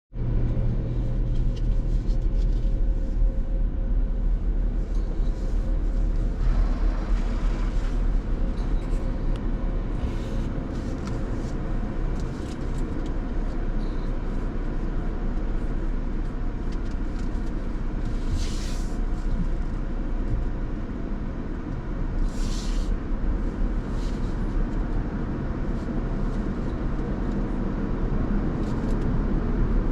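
Car engine idling with a steady low rumble, with car-wash equipment hissing around it: a broad hiss comes in about six seconds in, and two short, sharp hisses sound near eighteen and twenty-two seconds in.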